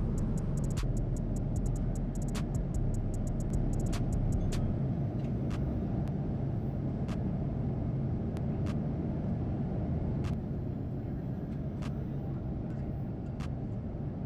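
Steady low rumble of a Boeing 777-200 airliner cabin in cruise flight, from engine and airflow noise, overlaid with scattered sharp clicks that come thick and fast for the first few seconds and then sparser. The rumble drops slightly about ten seconds in.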